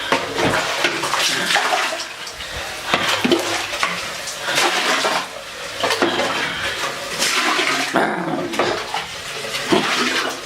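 Water gushing and splashing into a toilet bowl in uneven bursts, with a few sharp knocks among them.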